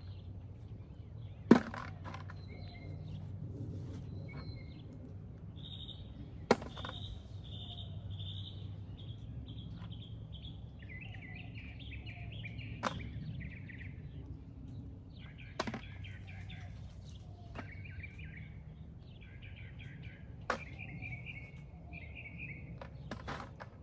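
Birds chirping in runs of short repeated calls, over a low steady rumble. Several sharp clicks or taps stand out, the loudest about a second and a half in.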